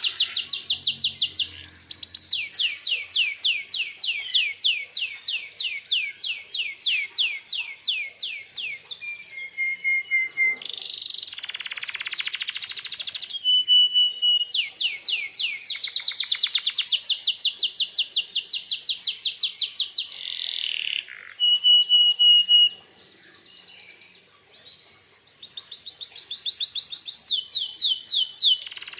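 Domestic canary singing a loud, continuous song: long, fast trills of repeated sweeping notes, broken by short held whistled notes and a harsher, denser passage near the middle, with a brief lull a little after two-thirds of the way through.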